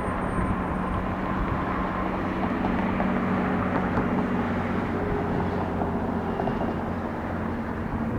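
Airbus A320-200 jet airliner's engines heard as a steady, even rumble with a faint steady hum as the aircraft rolls out on the runway after landing.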